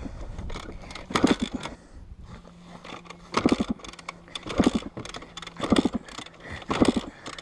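Dirt bike being kick-started over and over, five kicks about a second apart. Each kick turns the engine over briefly with a ratcheting churn, but it never fires, because the bike is out of gas.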